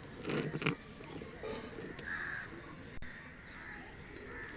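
A bird calling outdoors, two or three short separate calls over a low background hiss.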